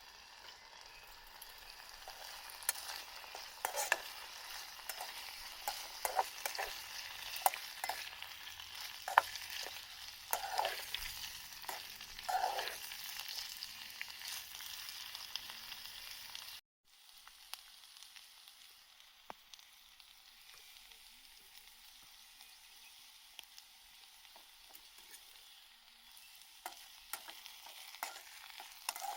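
Food sizzling in a frying pan, with sharp clicks and scrapes of a utensil stirring it. The sound cuts off abruptly a little past halfway, then carries on more quietly with fewer clicks.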